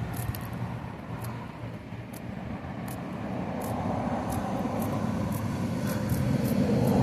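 Motor vehicle engine and road noise, a low rumble that grows steadily louder toward the end.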